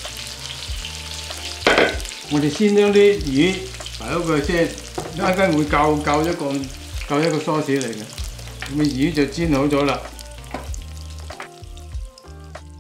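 Salmon fillets sizzling in hot oil in a wok with the heat just turned off, with one sharp knock about two seconds in.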